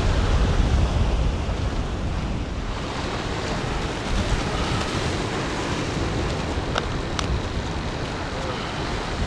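Wind buffeting the microphone over the steady wash of Gulf surf, with two faint clicks about seven seconds in.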